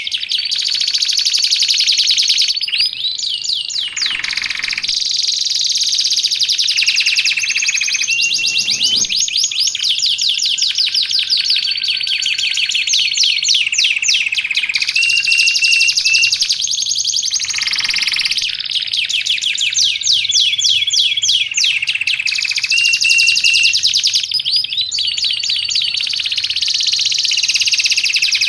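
Domestic canary singing nonstop: long rolls of very fast repeated notes, each roll switching to a new note pattern and pitch every few seconds.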